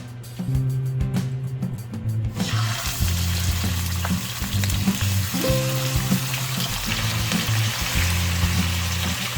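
Food frying in hot oil in a pan, a steady sizzle that sets in about two and a half seconds in, over background music.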